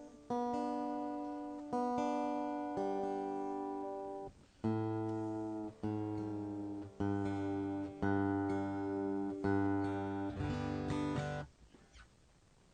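Acoustic guitar being tuned: strings plucked and strummed about ten times in turn, each left to ring out and fade, stopping about a second before the end.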